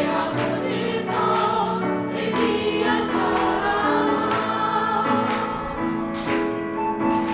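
Choir singing a song with instrumental accompaniment, holding long notes.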